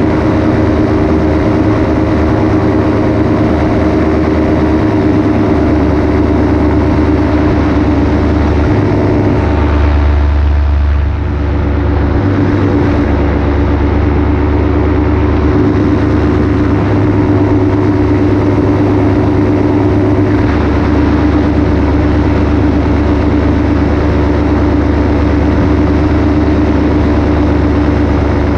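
Paramotor engine and propeller running steadily in flight, with a brief dip in level about eleven seconds in.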